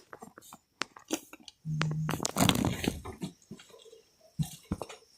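Rustling, crackling and clicking of things being moved and handled by hand during a search, with denser crunchy rustling around two and a half seconds in and a brief steady low hum just before it.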